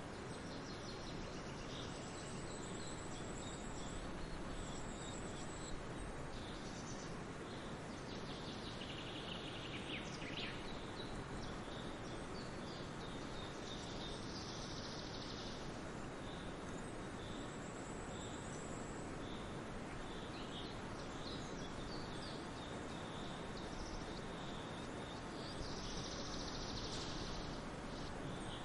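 Several songbirds singing and chirping on and off, with high thin trills and a falling call about ten seconds in, over a steady even rushing noise of forest ambience.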